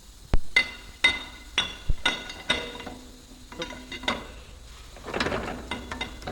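Hammer striking metal: a series of sharp, ringing metallic blows at an uneven pace, roughly one or two a second.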